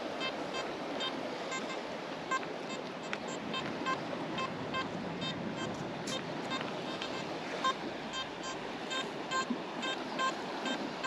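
Nokta Makro Simplex metal detector in beach mode, with a Detech Ultimate 13 coil, giving a run of short beeps as the coil sweeps back and forth over a buried target. The signal is bouncy, with the target ID sitting between 50 and 60. Waves wash on the shore underneath.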